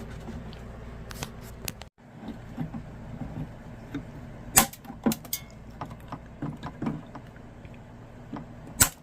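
Scattered clicks and knocks of hard objects being handled over a low steady hum, with the sharpest knocks about four and a half seconds in and near the end.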